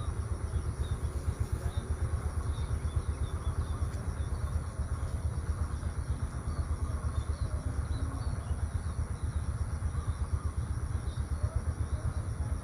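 Outdoor rural morning ambience: a steady low, fluttering rumble, with scattered faint bird chirps and a constant high insect drone above it.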